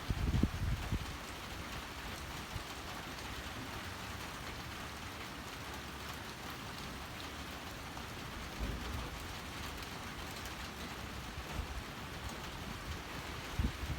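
Steady rain falling, an even hiss, with low gusts of wind rumbling in briefly at the start, about nine seconds in and again near the end.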